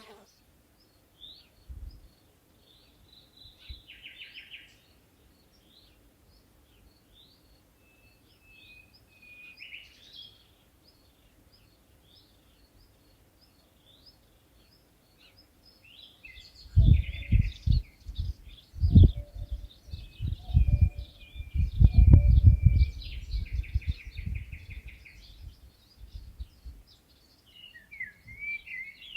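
Small birds calling with many short, high chirps and a few brief buzzy trills. Past the middle, a run of loud, irregular low thumps and rumbles lasts several seconds and is the loudest sound.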